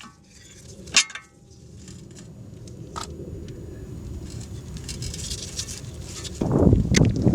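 Metal tools and car parts clinking during work on a CV axle: a sharp metallic clink with a brief ring about a second in, a few lighter knocks, then louder scraping and handling noise near the end.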